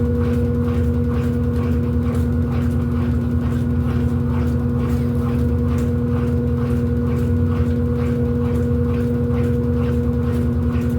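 Electrolux LED14 washing machine running a wash cycle: a steady motor hum with a constant tone, and a light repeating tick about twice a second.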